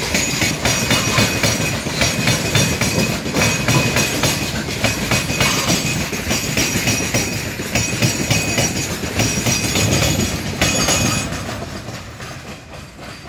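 Open-top steel freight wagons rolling past close by, their wheels clattering over the rail joints with a high metallic squeal above. Near the end the brake van goes by and the sound fades as the train moves away.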